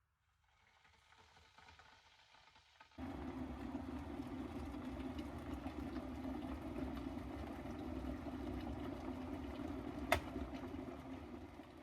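Water heating in an electric kettle: a steady rumble that starts suddenly about three seconds in, a single sharp click about ten seconds in as the kettle switches itself off, and the rumble dying away afterwards.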